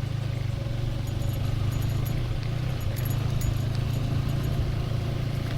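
150 cc motorcycle engine running steadily under way, a constant low drone, with faint light rattling clicks through the middle.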